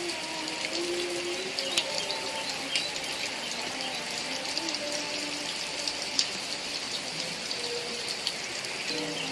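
Heavy rain falling steadily, with scattered sharp drop impacts and a faint low, wavering hum underneath.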